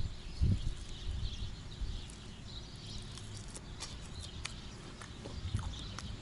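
Birds chirping faintly outdoors, with a couple of low thumps about half a second in and scattered light clicks through the middle and later part.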